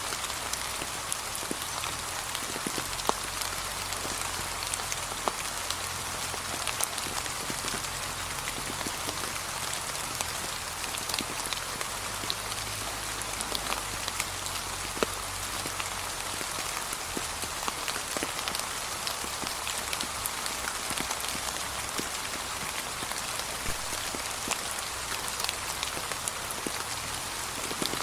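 Steady gentle rain falling on a surface, with a constant patter and scattered sharper drops.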